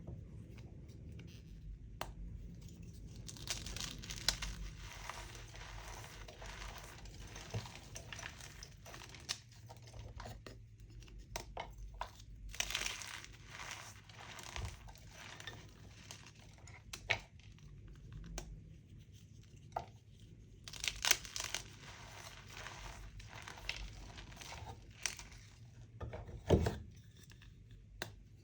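Chalk being crushed and crumbled by hand: irregular crisp cracks and snaps with softer crumbling in between. The loudest snap comes near the end.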